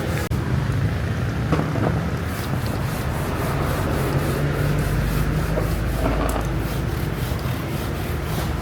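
Steady abrasive rubbing, like sanding, over a continuous low motor hum, with a few light knocks.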